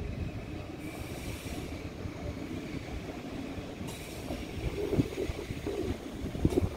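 ICE high-speed train running along a farther track through the station: a steady low rumble of the train on the rails with a faint, thin high squeal from the wheels.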